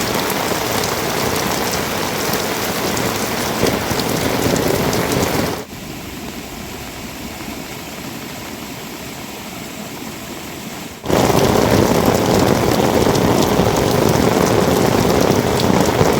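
Steady rain falling, a dense patter with fine drop ticks. The sound drops suddenly to a softer level about five and a half seconds in, then jumps back louder about eleven seconds in.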